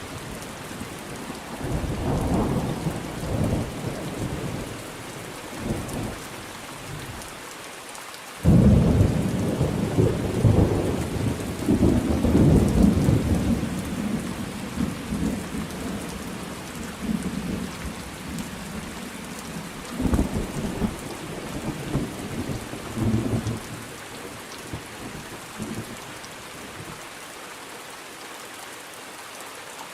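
Thunderstorm: steady rain with rolling thunder. A loud clap breaks suddenly about eight seconds in and rumbles on for several seconds, with lighter rumbles near the start and twice more later on.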